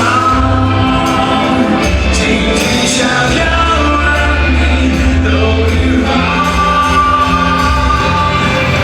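Live band music with singing, loud and steady, with long held sung notes over bass and drums.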